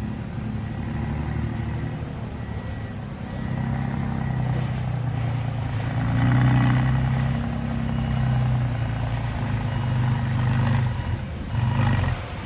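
Heavy diesel engine of earthmoving machinery running steadily, growing louder about halfway through and then easing back.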